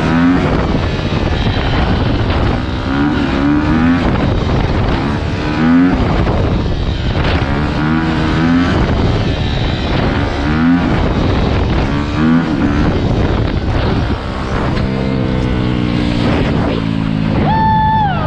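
Dirt bike engines running and being revved, the pitch climbing and dropping about every two seconds.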